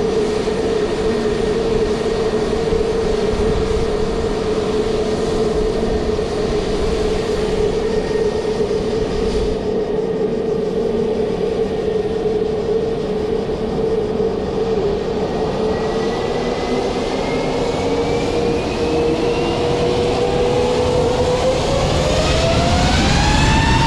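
Jet aircraft engines whining steadily over a rumble, then spooling up from about two-thirds of the way in, the whine climbing in pitch and getting louder as thrust is applied.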